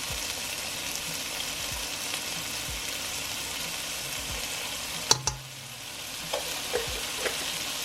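Onions and bell peppers sizzling steadily in butter in a pot. A single sharp knock about five seconds in, then a few light taps.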